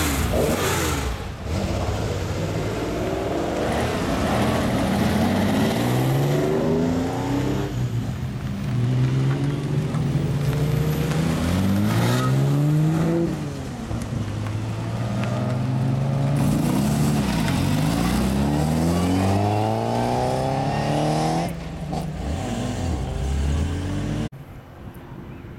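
Several track cars accelerating out of the pit lane one after another, engine notes rising in pitch through each gear and dropping back at the shifts, with more than one engine heard at once. The sound drops off suddenly near the end.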